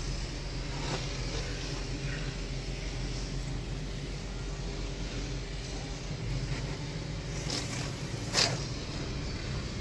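Car-wash pressure washer running steadily with a low motor hum and the hiss of spraying soap onto a car. A single sharp click or knock about eight seconds in.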